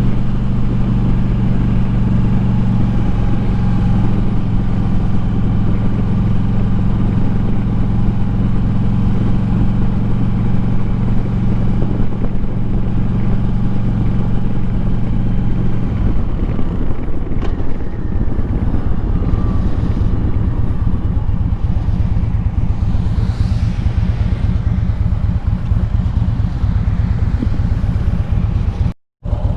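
Harley-Davidson Street Glide's V-twin engine running steadily under way, with wind noise; about halfway through the steady engine note drops away as the bike eases off. The sound cuts out briefly near the end.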